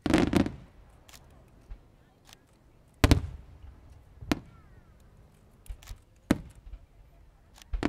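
Fireworks going off: a heavy boom right at the start and another about three seconds in, then single sharper bangs about a second and two seconds after that, with scattered fainter cracks between.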